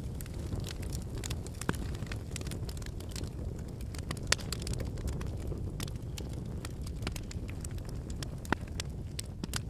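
Wood campfire burning: a steady low rumble of flames with irregular crackles and pops from the burning logs, the sharpest pop about four seconds in.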